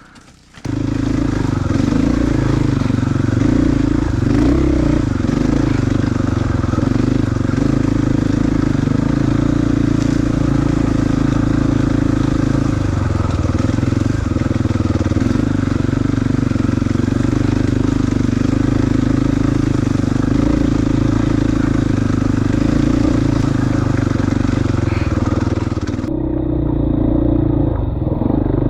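KTM 450 EXC single-cylinder four-stroke enduro motorcycle engine running steadily while being ridden, its revs rising and falling a little. It cuts in abruptly just under a second in.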